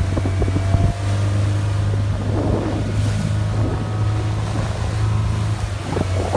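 Bayliner motorboat's engine running at a steady drone, with wind and water noise.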